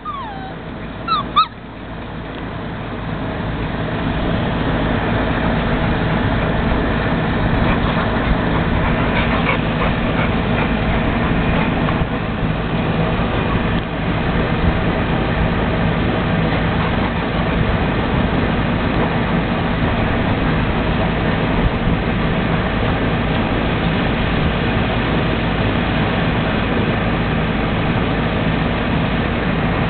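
A steady motor hum that builds over the first few seconds and then holds, with a few high puppy yips about a second in.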